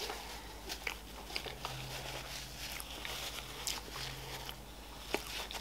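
Close-miked mouth sounds of someone chewing soft pastry with chocolate spread: scattered small wet clicks and smacks, over a faint low hum.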